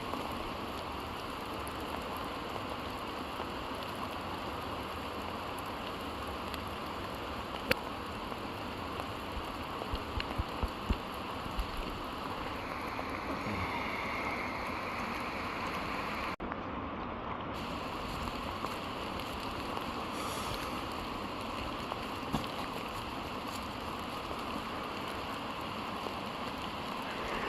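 Steady rain falling through the rainforest canopy, a constant even hiss, with a few faint knocks in the middle.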